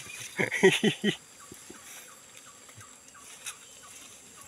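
A man's voice briefly at the start, then faint short chirps repeating about three times a second, a small bird calling.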